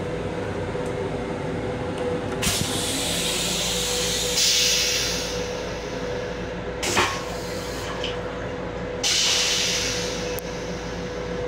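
Steady hum inside an LIRR M7 electric railcar with a constant whine. Three spells of hissing rise over it: the first about two and a half seconds in, a short one with a sharp click about seven seconds in, and another near the end.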